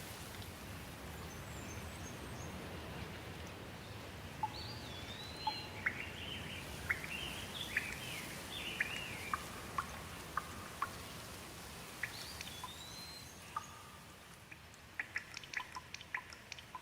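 Steady rain with birds calling over it: rising and falling whistled notes and quick chirps. About fourteen seconds in the rain hiss thins and separate water drops start dripping in a quick, irregular run of sharp ticks.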